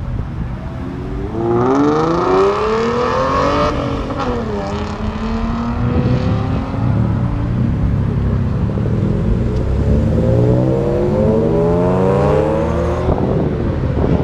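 Car engines accelerating hard with loud exhaust: the pitch climbs steeply from about a second and a half in to about four seconds, then falls away, and a second long climb runs from about nine seconds to thirteen before cutting off.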